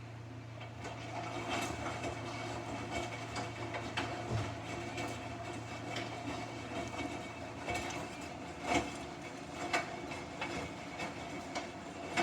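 Samsung washing machine running its wash cycle: a steady hum from the motor and drum, with an irregular clatter of knocks as the load tumbles, and a few louder thumps in the second half.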